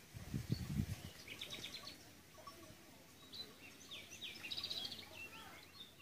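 Wild birds chirping by a reedy river, with two quick trilled phrases. A brief low rumble on the microphone comes about half a second in.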